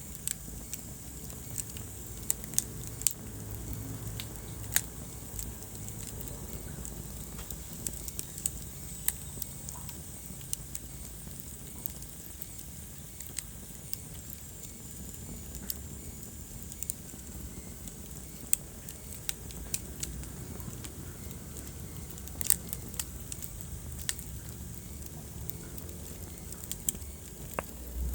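Wood fire crackling in a fireplace: frequent, irregular sharp pops and snaps over a steady low rumble of burning flames.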